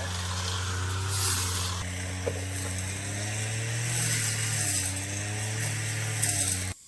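A small engine running steadily, its pitch rising a little twice, with a hiss over it; it cuts off suddenly near the end.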